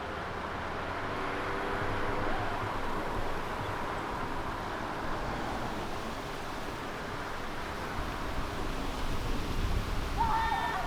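A car driving, with steady road and running noise. A short pitched sound comes in near the end.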